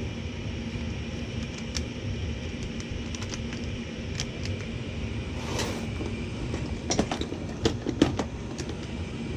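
Gas furnace running with a steady low hum, with scattered light clicks and a few sharper knocks about seven to eight seconds in.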